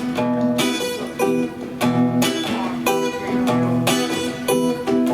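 Strummed acoustic guitar playing the song's instrumental intro, a steady rhythm of chords with no singing yet.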